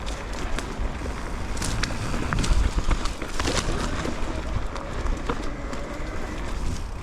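Electric mountain bike riding down a rocky trail: a steady rumble of wind on the microphone and tyres over rock, with scattered knocks and rattles from the bike and its suspension over the rocks.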